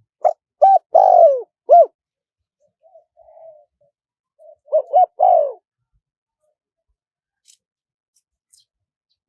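A spotted dove cooing: a phrase of about four coos, the third held longest, then a softer murmur, and a second phrase of three coos about three seconds later. It is a recorded call of the kind played to lure wild doves.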